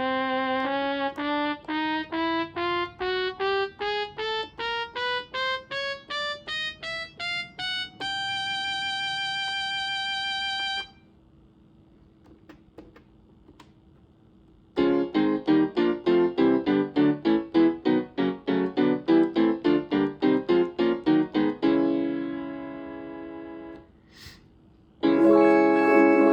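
Omnichord OM-300 electronic instrument being test-played after a power-board repair. A slow, stepwise rising run of single notes leads into a held tone that cuts off suddenly. After a short pause with faint clicks comes a fast run of repeated notes, then sustained chords.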